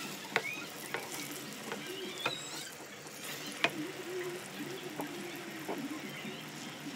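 Banana halves frying in hot oil in a nonstick pan: a steady sizzle broken by sharp clicks and pops, the loudest a little past halfway. In the first seconds a slotted spatula turns the bananas against the pan.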